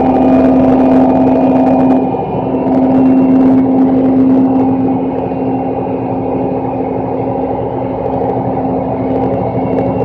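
Roll-off garbage truck's engine running at a steady held speed, one constant droning pitch with a brief dip about two seconds in.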